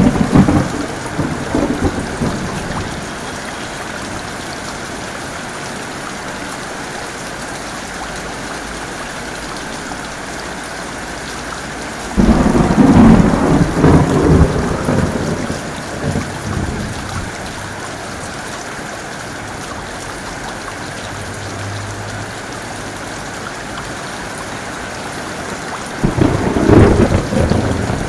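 Steady heavy rain with thunder: a clap of thunder right at the start that rumbles off over a couple of seconds, a longer, louder rolling peal about twelve seconds in, and another clap near the end.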